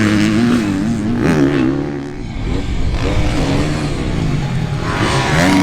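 Motocross bike engine revving up and down under throttle, its pitch dipping and climbing, with a sharp rising rev about five seconds in.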